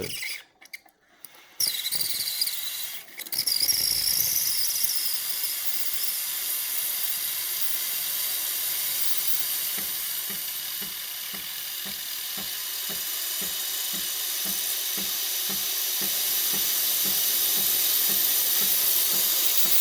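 Sage espresso machine's steam wand running with a steady hiss that starts about a second and a half in, with a high squealing whistle for the first few seconds. Underneath is a regular low pulsing, about two or three a second. The steam comes out well even though the machine builds no brewing pressure.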